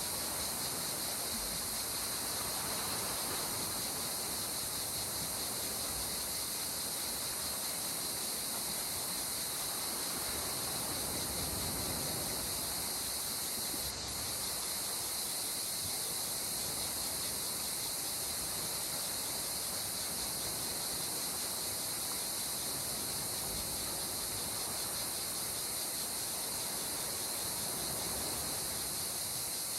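Gentle sea water washing at the shore as a steady hiss, swelling softly a few times, under a constant high-pitched insect chorus.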